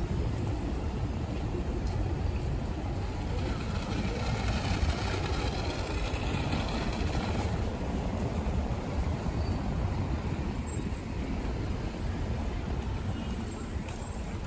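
Wind buffeting the microphone while riding a bicycle: a steady low rumble, with a faint pitched sound in the middle few seconds and a brief bump about ten and a half seconds in.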